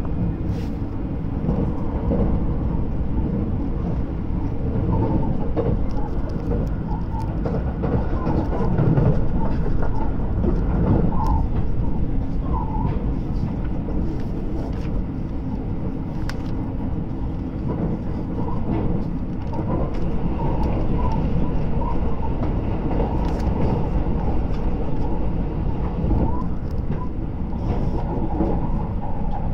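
Running noise heard inside a JR 683-series electric limited-express motor car at speed: a steady, loud rumble of wheels and running gear on the rails.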